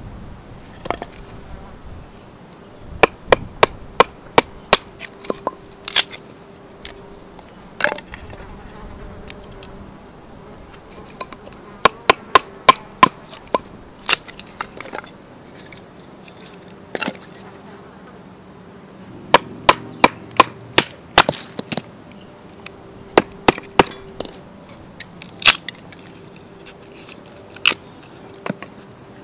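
Wood fire crackling in a small wood-burning stove, with sharp pops coming in clusters every few seconds, while a fly buzzes on and off.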